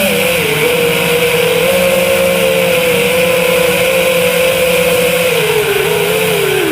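FPV quadcopter's motors and propellers running with a steady buzzing whine, the pitch wavering with throttle and dipping briefly near the end before rising again.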